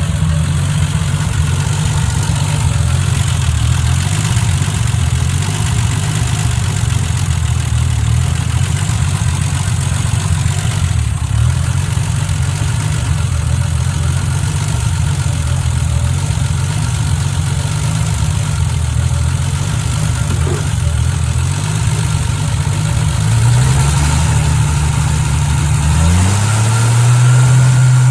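Freshly rebuilt Triumph TR6 straight-six running at idle during its first run-in, with the carburettor being tuned. Near the end the engine speed rises in two steps and then holds at a faster, steady idle.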